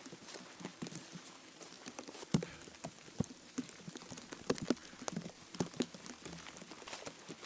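Irregular light knocks and clicks, a few every second, over a faint steady hiss.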